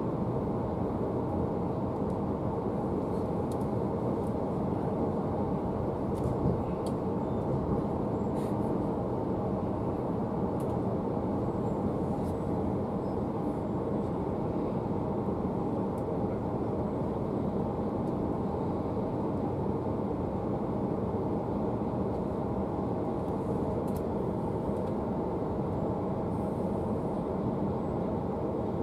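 Steady rumble of a passenger train running along the line, heard from inside the carriage, with a few faint clicks now and then.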